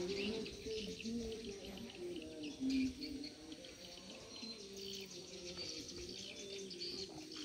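Birds chirping and tweeting in short high calls, over a low wavering pitched sound that steps up and down and continues throughout.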